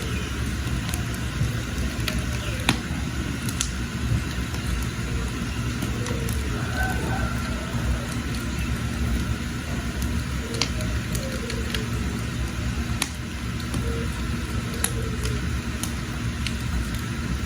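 Wood fire burning with a steady low rumble and scattered sharp crackles and pops from the burning firewood.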